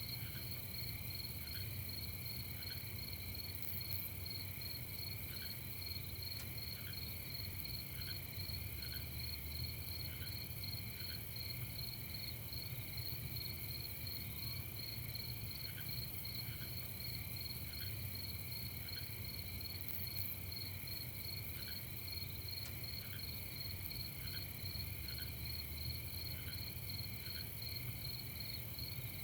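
A steady chorus of crickets and other night insects, trilling continuously in several high pitches, with short quieter chirps scattered through it and a low steady rumble beneath.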